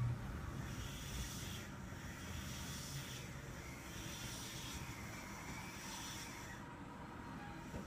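Kintetsu 2430-series train car standing at a platform: a faint hiss that swells and fades unevenly, with no motor or wheel noise.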